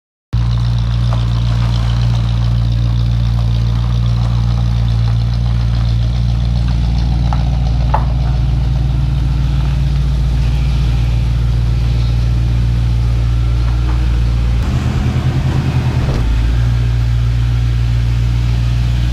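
1966 Ford Mustang's 302 V8 running steadily at low speed, with a brief change in its note about fifteen seconds in. The owner counts it an engine that runs really well.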